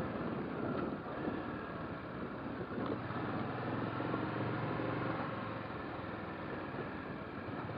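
Motorcycle on the move: a steady engine hum under a continuous rush of wind and road noise.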